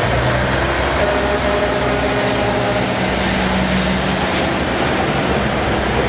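Heavy trucks' diesel engines running as they drive past in a parade. The sound is a steady, dense rumble with several engine tones over road noise.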